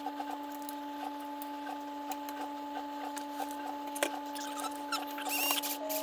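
Light clicks and scratches of small screws and a tool working against the printed plastic parts of a 3D printer extruder, over a steady hum. A denser burst of scratchy rubbing comes near the end.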